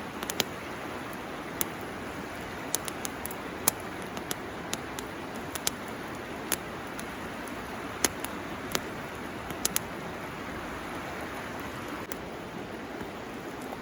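Bamboo burning in a campfire, crackling with sharp, irregular pops. Under it runs the steady rush of a river.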